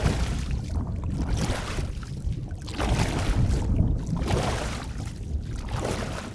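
Underwater ambience: a steady deep rumble with hissing, sloshing swells of water noise that rise and fall every second or so.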